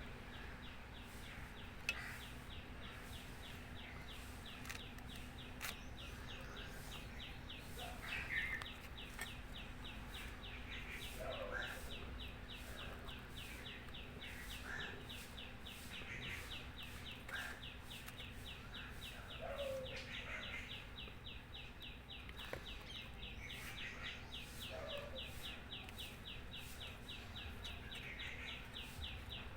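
Birds calling: a fast, even run of high chirps carries on throughout, with scattered short calls over it.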